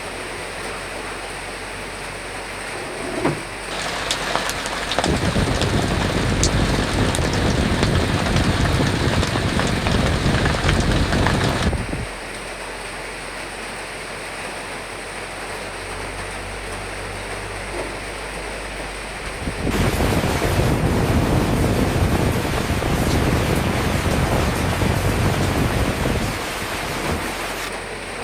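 Steady rain and wind, swelling twice into louder stretches of heavier rain and gusting wind, each about eight seconds long, that come in and drop away suddenly.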